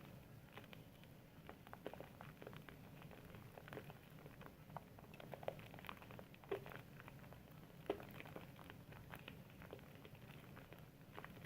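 Soap being worked into a lather: faint, irregular wet crackles and small pops, a few louder ones now and then.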